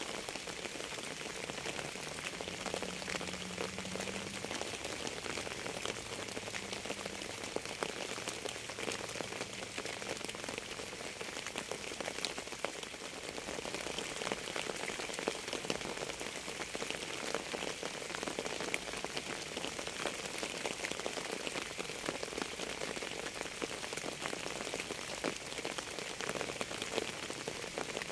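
Steady rain falling, with many separate drops ticking against a surface.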